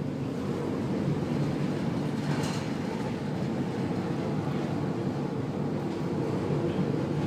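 Steady low rumble of a ship's engine and machinery heard on board, with a faint even hum under it.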